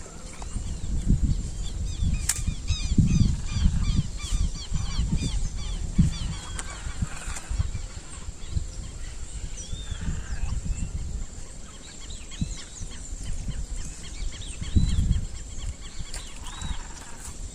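Birds calling with rapid runs of short, repeated chirps, thickest in the first half. Under them are loud, uneven low rumbles and thumps, the loudest of them near the start and about three-quarters of the way through.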